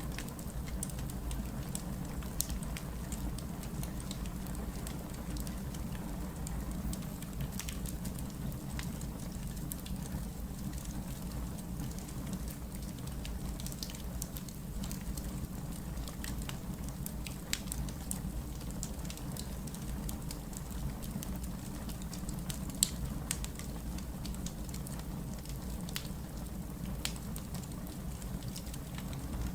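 Wood fire burning: a steady low rumble with scattered sharp crackles and pops, and one louder pop about three-quarters of the way through.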